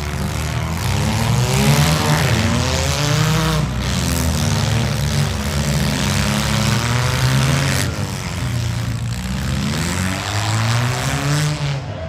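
Several compact-car engines revving hard and dropping back, overlapping one another, as demolition derby cars shove against each other.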